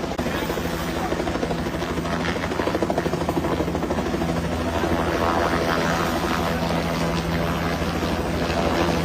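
Helicopter rotor and engine running steadily and close, with a continuous rapid blade chop over a low, even drone.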